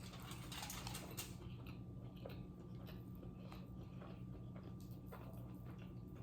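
Faint chewing and small mouth clicks of a person eating, a few sharper clicks in the first second or so, over a low steady hum.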